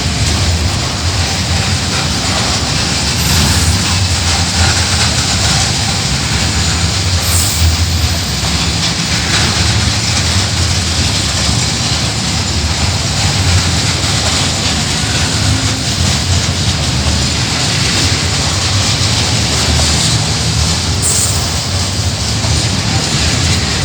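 Coal train running along the line, a loud steady rumble of wheels on rails.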